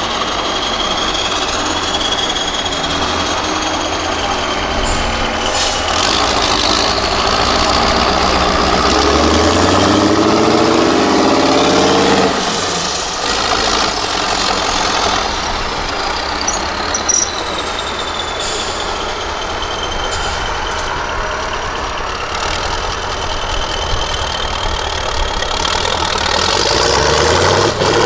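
Mercedes-Benz 8x8 trial truck's diesel engine working under load, revving up over several seconds and then dropping back sharply about twelve seconds in, with a high whine rising and falling above it. Near the end it revs up again.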